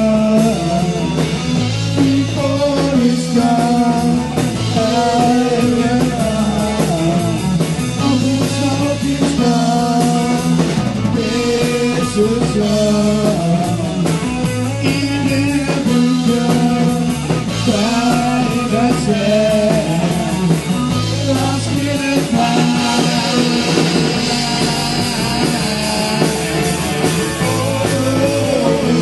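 Live rock band playing a song, with a singer, guitar and drums.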